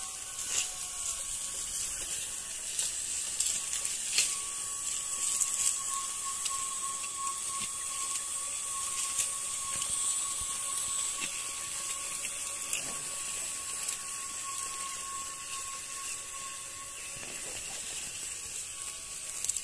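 Electric drive motor of a small homemade electric tractor running with a steady high whine that sets in a few seconds in, over a hiss and scattered clicks and knocks.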